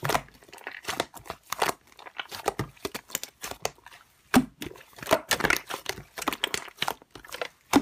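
Slime being pressed and stretched by hand, giving an irregular run of small crackles and pops.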